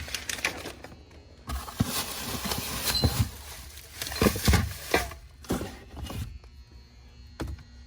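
Handling noise as new transmission parts are taken out and shown: packaging rustling for several seconds, with a few knocks and thumps as parts are moved.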